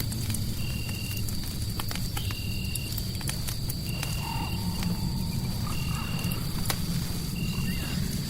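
Fireplace ambience: a fire crackling with scattered sharp pops over a steady low rumble of noise. A short, flat, high-pitched call of about half a second repeats five times, roughly every second and a half, against a thin steady high whine.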